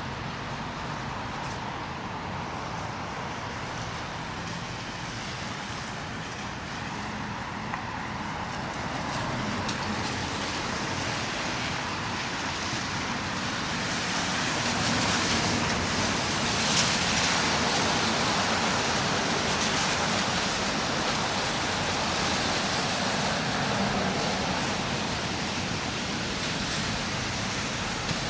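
City street traffic: a steady hiss of cars driving on snowy roads, growing louder about halfway through as vehicles pass close.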